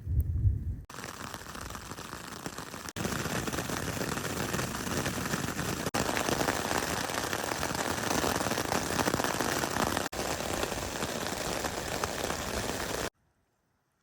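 Steady rain falling, an even hiss, with a low rumble of thunder dying away in the first second. The rain cuts off suddenly near the end.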